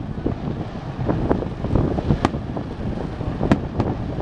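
Fireworks going off in scattered sharp bangs and crackles, the clearest about two and three and a half seconds in, over a steady low rumble of wind on the microphone.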